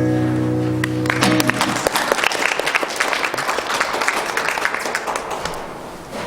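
The last acoustic guitar chord of a song rings out and fades, and audience applause breaks out about a second in, then slowly dies down.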